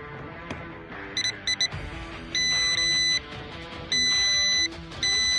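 Multimeter beeping while its probes are on a fuel injector's terminals: a few quick short beeps, then steady beeps of about a second each, over background music.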